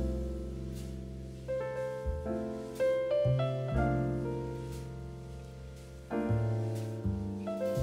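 Slow piano music: chords struck about once every one to two seconds over low bass notes, each left to ring and fade.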